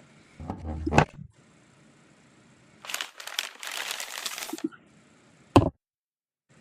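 A run of short edited sound effects. First a low rumbling rush builds into a hit about a second in. Then comes a burst of crackling hiss lasting about a second and a half. Last, a single sharp crack is followed by a dead digital cut to silence.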